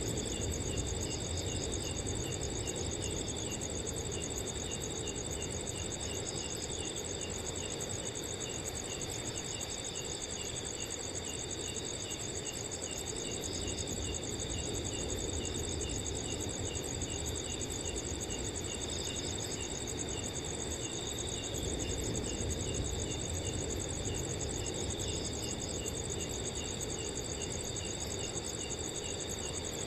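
Several crickets chirping together, some in steady high trills and one in evenly pulsed chirps of about two to three a second, over a soft low rush of wind.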